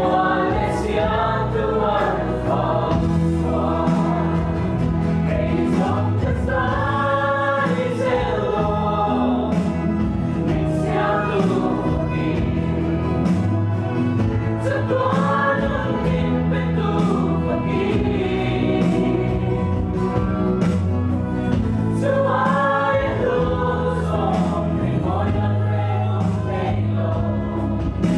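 Worship music: a group of voices singing a gospel song over band accompaniment, with sustained bass notes and frequent cymbal strikes.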